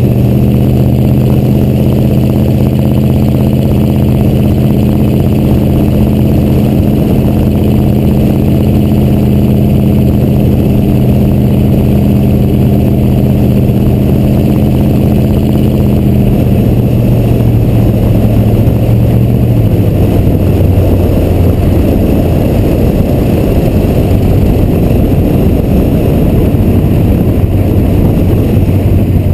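1986 Chevrolet C30 dually's 6.2 Detroit diesel V8 running through its exhaust stacks while the truck is driven, a steady drone. About two-thirds of the way through, the pitch drops as the engine slows.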